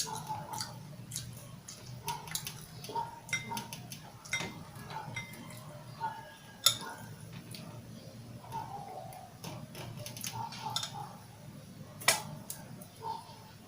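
Close-miked eating of grilled pork barbecue: chewing with irregular sharp mouth clicks and smacks, the loudest about a third of the way in and again near the end, over a steady low background hum.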